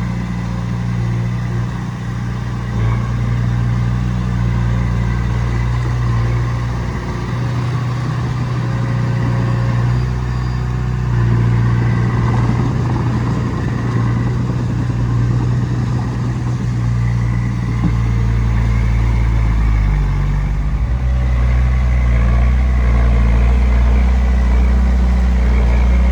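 Heavy diesel engine of earthmoving machinery running steadily, its note shifting about twenty seconds in and getting a little louder toward the end.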